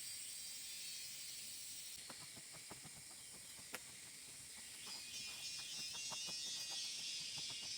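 High, steady trilling of an insect chorus (crickets or cicadas), swelling after about five seconds. Scattered light clicks and taps start about two seconds in, with one sharper click about halfway through.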